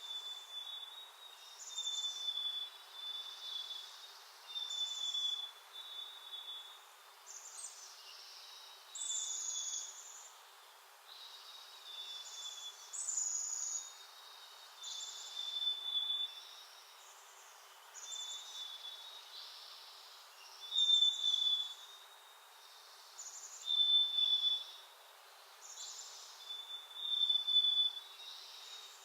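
A small backyard songbird calling over and over, each call a brief high note followed by a short steady whistle, repeated about every one to two seconds.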